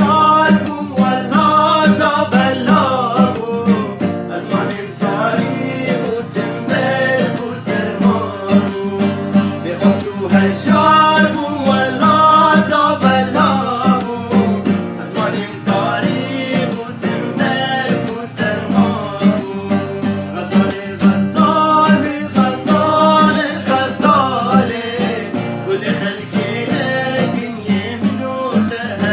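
Kurdish song: male singing with sliding, ornamented lines over a plucked string instrument and a steady low drone.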